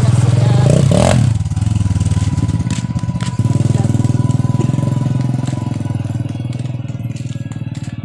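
A small engine running close by with a dense, steady low pulsing. It eases off about a second and a half in and picks up again about three and a half seconds in.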